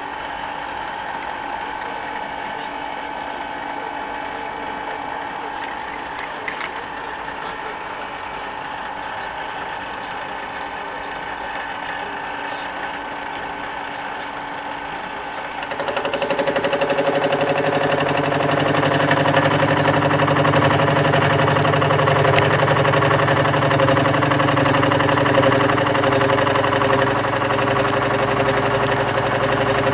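Machine tool used for gear cutting, running with a steady motor hum; a little past halfway it becomes louder and fuller and stays at that level.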